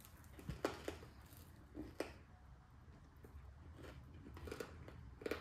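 People chewing freeze-dried sour gummy worms, the crunchy outside breaking with a few sharp crunches: about half a second in, at two seconds, and again near the end.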